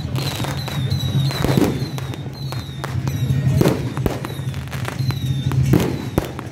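Firecrackers going off in a run of irregular sharp bangs, over a steady low hum.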